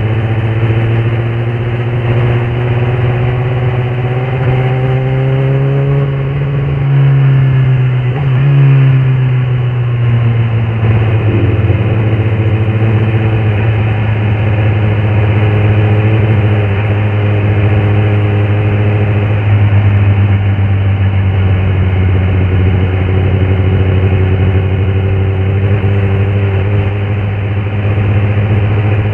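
Kawasaki ZX-10R SE's inline-four engine running steadily at mid revs. Its pitch climbs slowly over the first several seconds, eases back about eight to ten seconds in, then holds steady.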